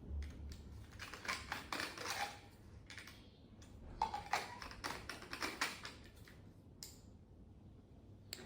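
Irregular clicks and taps of a battery-powered wireless microphone being handled just after it has been switched on, with a low thud at the start.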